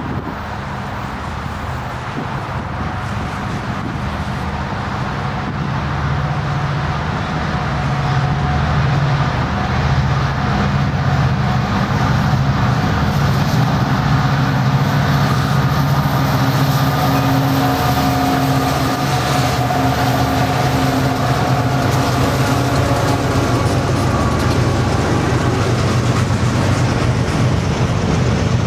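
A BNSF coal train's diesel locomotives, an EMD SD70MAC in the lead, run toward the listener and pass, growing louder over the first several seconds and then holding a steady low engine drone. Loaded coal hopper cars then roll past with wheels clattering on the rail joints.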